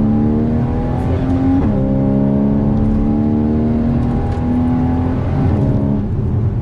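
Porsche Cayman GTS engine pulling hard, its pitch climbing steadily, dropping suddenly about one and a half seconds in as it changes up a gear, then climbing again through the next gear before dropping once more near the end.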